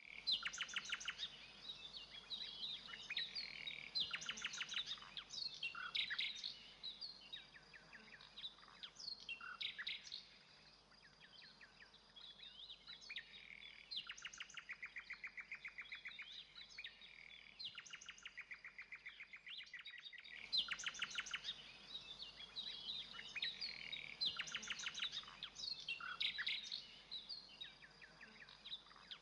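Common nightingale singing: phrases of rapid repeated notes and clear whistles, broken by short pauses between phrases.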